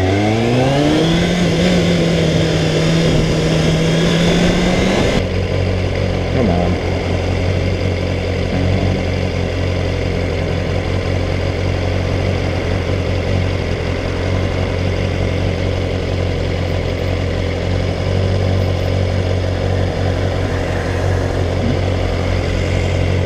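Kawasaki ZXR400 inline-four engine pulling through a gear with rising pitch, then holding a steady note. About five seconds in it cuts to a lower steady note, the engine idling.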